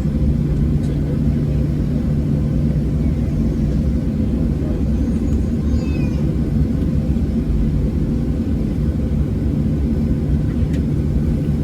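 Steady low rumble inside the cabin of a Boeing 737-700 from its CFM56-7B engines at idle, with a few steady low hums, while the aircraft waits or taxis before takeoff.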